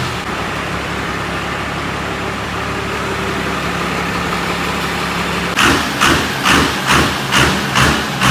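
Cummins diesel pull truck engine idling steadily. About five and a half seconds in, a run of loud, even hissing pulses starts, about two a second.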